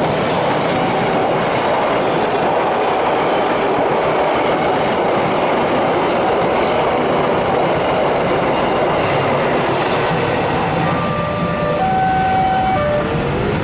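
Loaded container freight wagons of a train hauled by a CC 203 diesel locomotive rolling past at close range: a loud, steady noise of wheels running on the rails, with a few short thin tones near the end.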